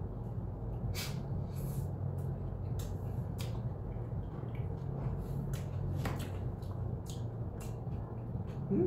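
A man chewing a mouthful of food, with scattered soft mouth clicks and smacks, over a steady low hum.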